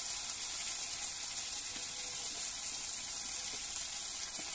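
Onion and spice paste frying in hot oil in a steel kadai, a steady sizzle.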